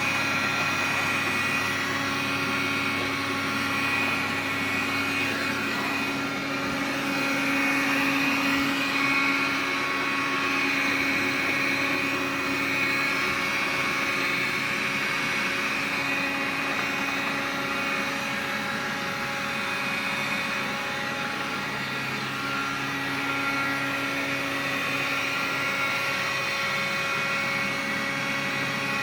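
Xiaomi vacuum cleaner running steadily, its motor giving a whine made of several steady tones, swelling slightly for a few seconds and easing back: the unwanted extra noise the owner is complaining about.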